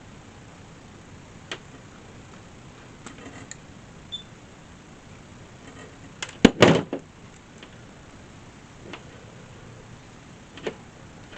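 Scattered light clicks and knocks of objects being handled, with a cluster of sharper, louder knocks about six and a half seconds in.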